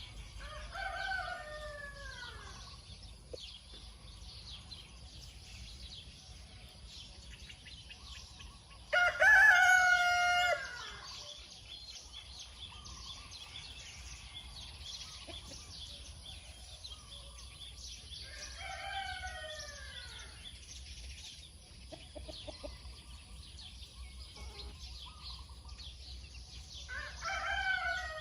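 Light Sussex roosters crowing one after another: four long crows spaced about nine seconds apart, the second, about nine seconds in, much louder and closer than the rest. A steady high chirping of small birds runs underneath.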